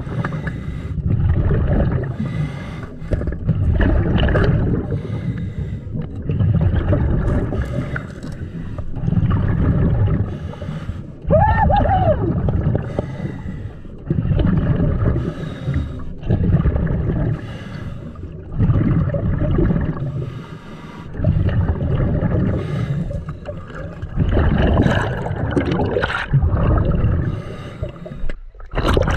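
Scuba diver breathing through a regulator underwater: exhaled bubbles gurgle out in repeated surges every couple of seconds.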